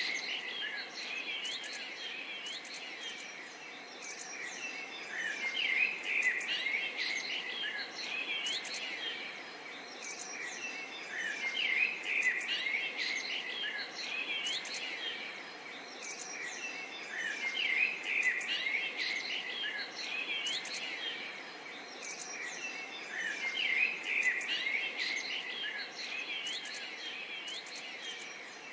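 Several small songbirds chirping and twittering over a steady background hush, the chirping swelling into busier clusters about every six seconds.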